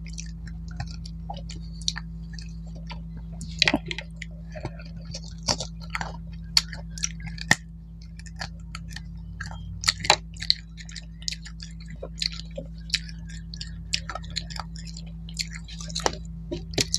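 Close-miked chewing of mutton and rice eaten by hand: irregular wet smacks and clicks of the mouth, the loudest about four and ten seconds in, over a steady low hum.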